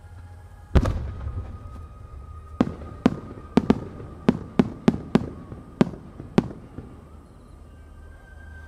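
Aerial fireworks going off: one heavy boom about a second in, then about ten sharp, irregularly spaced cracks over the next four seconds, ending around six and a half seconds in.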